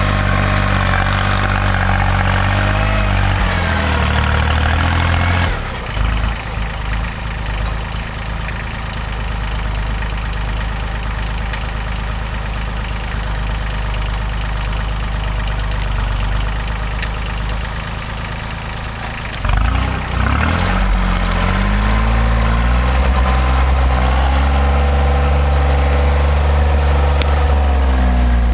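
Diesel engine of a Timberjack forestry forwarder running under load. Its note drops away suddenly about five seconds in and runs lower for a long stretch. It revs back up about twenty seconds in and holds a steady higher speed to the end.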